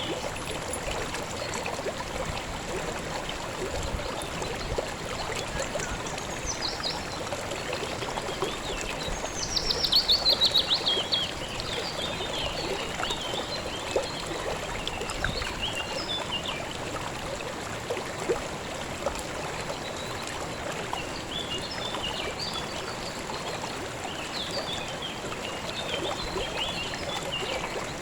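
Steady rush and babble of a river's flowing water, with birds chirping over it; about a third of the way in, one bird gives a loud, rapid trill that falls in pitch over about a second and a half.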